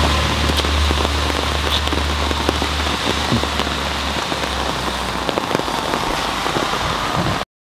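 Steady rain falling, with scattered drops ticking over an even hiss, above a low hum that fades out about three to four seconds in. The sound cuts off suddenly near the end.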